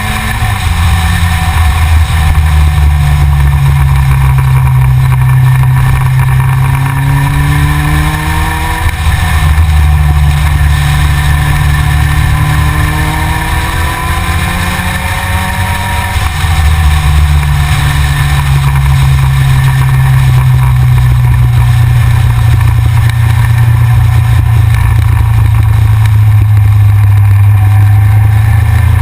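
Yamaha XJR inline-four motorcycle engine under way, pulling up through the gears: its pitch climbs, drops back at gear changes about a third and just over halfway in, then holds fairly steady at cruising speed.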